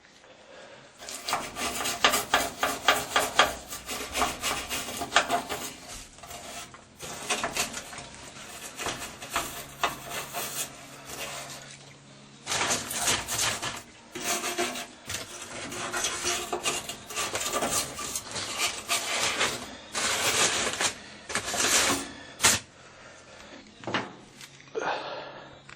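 Rust being scraped off the steel top of an old Whirlpool washing machine: a hand tool makes quick, rasping back-and-forth strokes on the metal in bursts of several seconds, with brief pauses between them.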